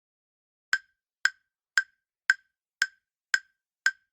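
Ticking clock sound effect of a quiz countdown timer, seven sharp, even ticks about twice a second, starting just under a second in: the time given to answer before the answer is revealed.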